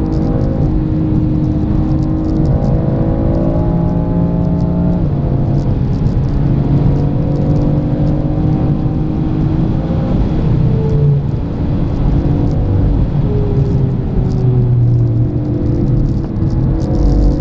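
BMW M4's twin-turbo inline-six heard from inside the cabin under hard driving: the engine note climbs for about five seconds, drops sharply at an upshift, then pulls again, with the pitch falling twice later as the car lifts off. Tyre and road noise run underneath.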